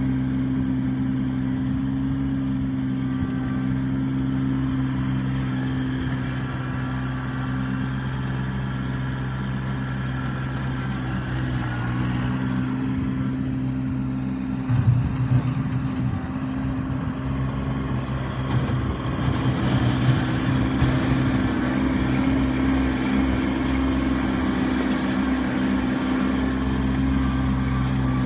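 Kubota B2650 compact tractor's three-cylinder diesel engine running steadily. About halfway through, the engine note shifts and runs rougher, with uneven louder surges for several seconds, before settling back to a steady run.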